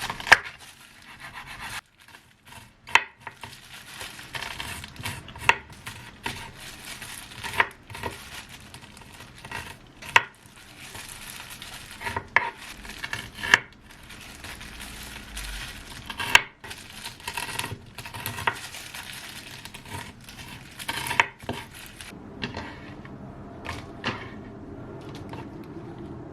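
Kitchen utensils clinking against dishware, a sharp clink every second or two, some of them ringing briefly, over a low steady background.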